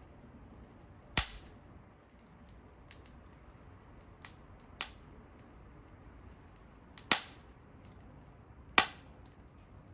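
Wood fire crackling, with four sharp, loud pops a couple of seconds apart and a few softer snaps among faint ticking.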